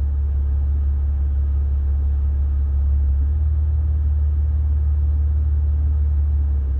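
2020 Maserati engine idling in Drive, heard from inside the cabin as a steady low hum, with the idle speed shifting up about three seconds in. The owner calls this idle "going crazy", rising and falling up and down.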